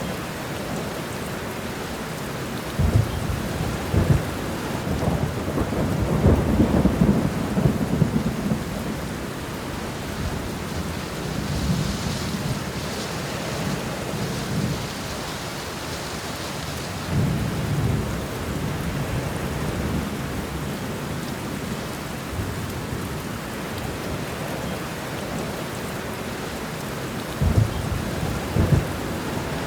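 Steady rain falling, with thunder rumbling low several times: the longest, loudest roll comes about six to eight seconds in, and two sharper claps come near the end.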